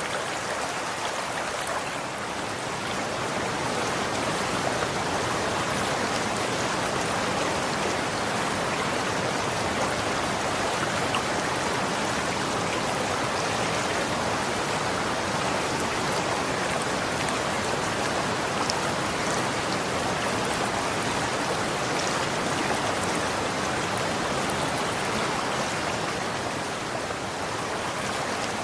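Water running and splashing in a steady, even rush, as of a stream or small cascade.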